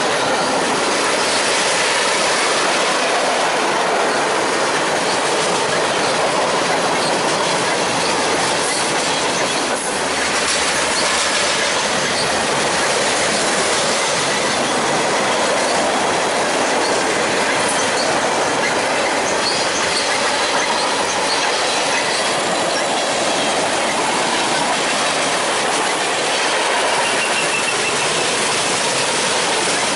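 A train rolling past at steady speed: a continuous loud rush of steel wheels on rail, with faint, thin wheel squeals.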